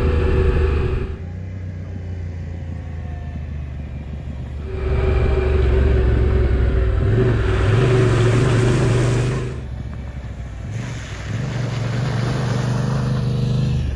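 Motorcycle engine running on the move, easing off about a second in and pulling hard again near five seconds, then easing off and picking up once more, as the rider slows for and rides through a water crossing. A stretch of rushing noise lies over the engine near the middle.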